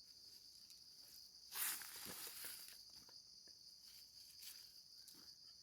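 Faint, steady high-pitched insect chirring, typical of crickets in the forest, with a brief rustle about one and a half seconds in.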